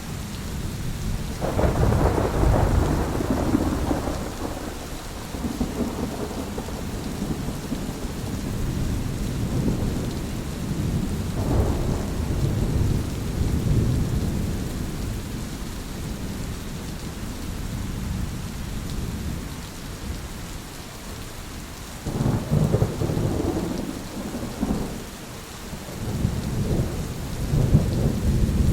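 Thunderstorm: steady rain with rolling thunder. Loud rumbles swell up about a second and a half in, again near the middle, and twice more near the end.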